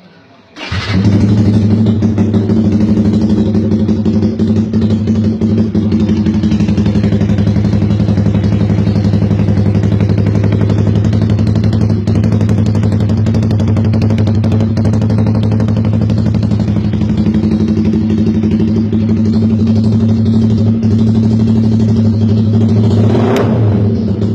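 Yamaha R15's single-cylinder engine breathing through an SC Project aftermarket exhaust, starting up about half a second in and then idling steadily. A short sharp sound comes near the end.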